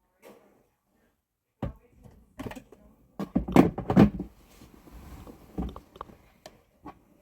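A string of irregular knocks and clunks of hard objects being handled, loudest about three to four seconds in.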